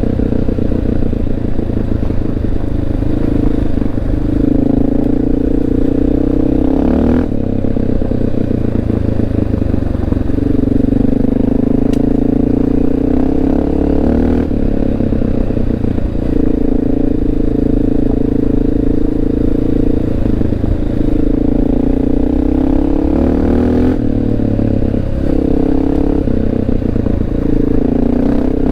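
Honda XR650L's single-cylinder four-stroke engine running under way, its pitch rising and falling with the throttle and dropping sharply a few times as it is shifted or backed off, with tyres rattling over a gravel road.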